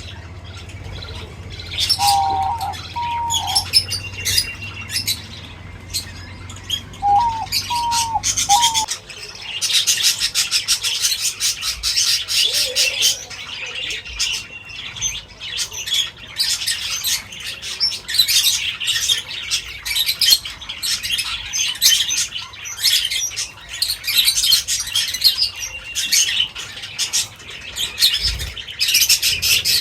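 Many birds chirping at once, a dense twittering that grows busier about nine seconds in. A few shorter, lower falling calls come in twice during the first eight seconds.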